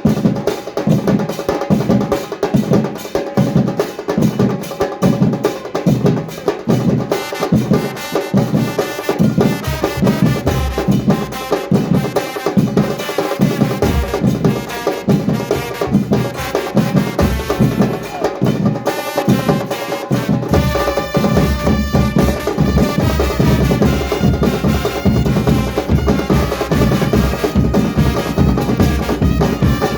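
Murga drum band playing a steady, driving rhythm on bass drums and percussion, with pitched instruments or voices above. The low drums turn denser about two-thirds of the way through.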